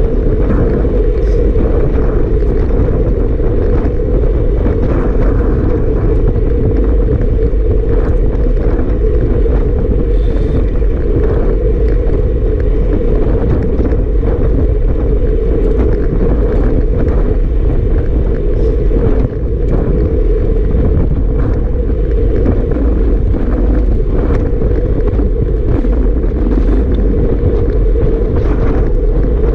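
Strong wind blowing over the microphone: a loud, steady rumble with a brief dip about two-thirds of the way through.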